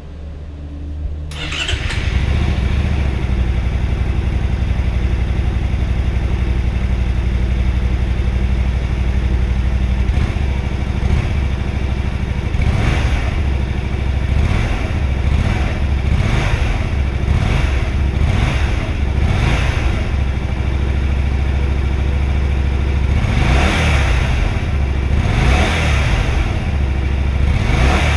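Honda Varadero 125's small V-twin engine starting about two seconds in, then idling, with repeated throttle blips that rise and fall in the second half.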